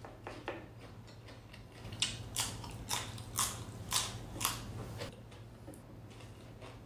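Close-up mouth sounds of someone chewing a crisp raw vegetable: a series of sharp crunches, about two a second, through the middle, with a few fainter clicks before them.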